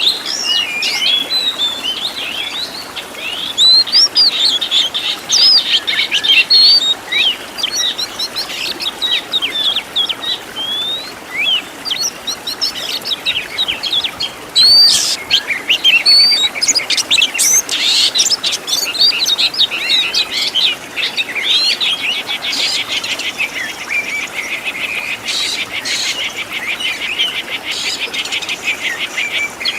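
Oriental magpie-robin (kacer) singing a continuous, varied run of whistles, chirps and slurred notes, its song full of phrases mimicked from other birds. A long, rapid trill comes past the middle.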